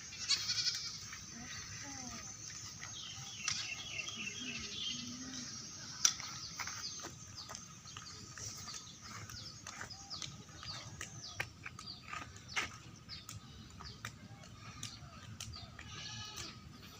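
Birds chirping in many short, quick calls, over a steady high-pitched hum, with a louder call just after the start and another near the end.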